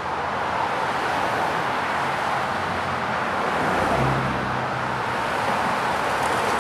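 Highway traffic ambience from a sound-effects library: a steady wash of tyre and engine noise from passing cars, with one vehicle's low engine note swelling and fading about four seconds in.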